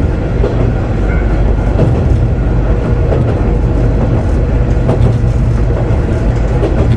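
Kanto Railway KiHa 2000 diesel railcar running, heard from inside the car: a steady low drone of engine and wheels on rail, with a few short knocks now and then.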